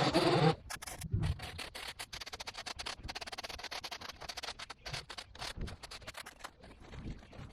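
Background music cuts off about half a second in, followed by a fast, irregular run of scratching and scraping sounds.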